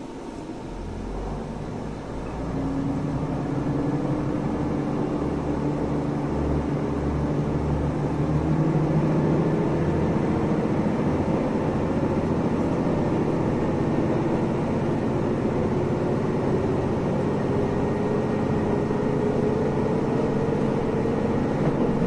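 Passenger train pulling away and accelerating, heard from inside the car. Its running note climbs slowly and steadily in pitch as speed builds, over a low pulsing rumble that fades out after the first several seconds.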